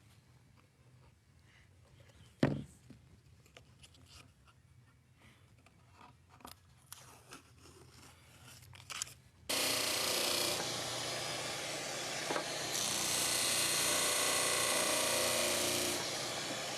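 Light workshop handling clicks and knocks, with one sharp knock, then about nine and a half seconds in a power tool starts suddenly and runs with a steady rushing noise, easing a little near the end.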